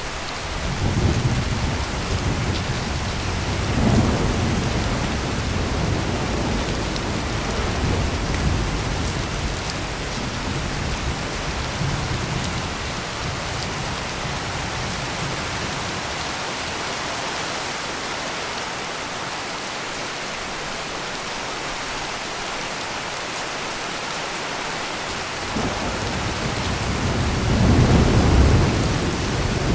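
Heavy rain falling steadily in a thunderstorm. Deep thunder rumbles through the first half, dies away, and a louder roll of thunder comes near the end.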